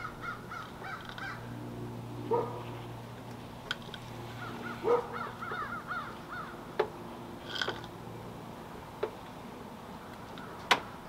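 A bird calling in two quick runs of short chirping notes, over a low steady hum that stops near the end, with a few scattered clicks.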